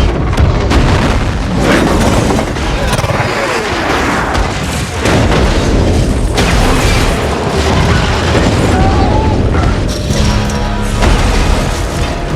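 Film action sound mix of a runaway bullet train crashing: continuous heavy booms and rumbling under a dramatic music score.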